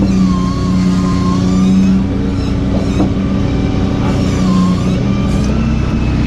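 Truck engine running steadily with a constant low hum, and a fainter whine above it that dips and rises twice.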